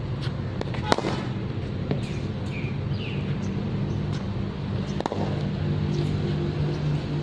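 Cricket ball struck by a bat: two sharp cracks, the louder about a second in and another about four seconds later, over a steady low hum.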